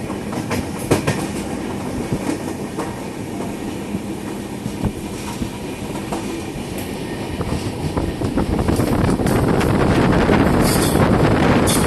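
Passenger train running along the track, heard from a carriage: steady rumble with the irregular clack of wheels over rail joints, growing louder about two-thirds of the way through.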